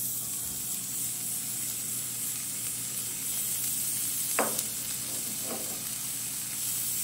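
Pounded turmeric, onion and garlic paste sizzling steadily in hot oil in a non-stick wok, the first frying of the spice paste. A brief sharp sound cuts through about four and a half seconds in.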